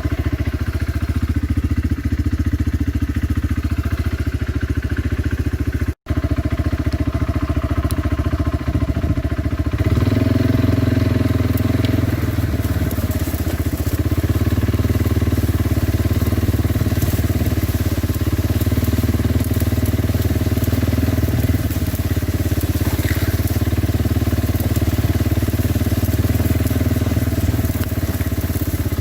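Kawasaki Brute Force 300 ATV's single-cylinder four-stroke engine running steadily under way, its note getting louder and heavier about a third of the way in.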